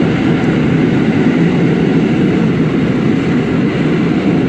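Subway train running at speed, heard from inside the car: a loud, steady rumble of wheels on rail.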